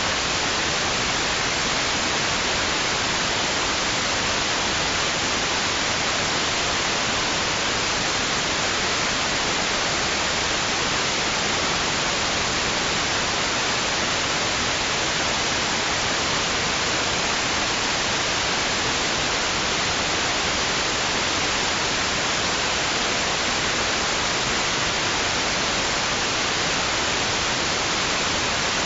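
Steady white noise: a constant, even hiss with no rise and fall, brightest in the upper range.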